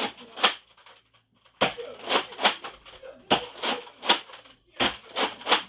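Nerf blasters firing foam darts in a rapid exchange: a string of sharp pops and clicks, several in quick runs, with a short pause about a second in.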